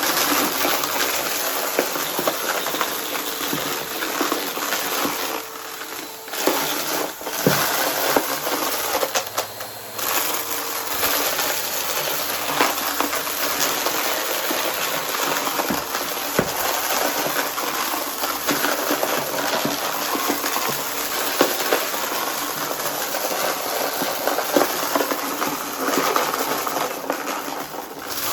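Vacuum cleaner with a spinning brushroll running steadily while it sucks up crunchy debris, a dense crackle and rattle of bits hitting the brushroll and the hose over the motor's rush. The sound dips briefly a few times.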